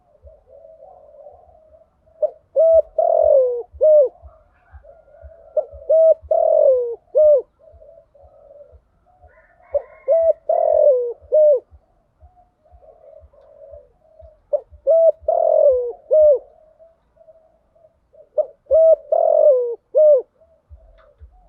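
Spotted dove cooing: a phrase of a few hooked, falling coo notes repeated about every four seconds, five times, with softer low murmuring coos between the phrases.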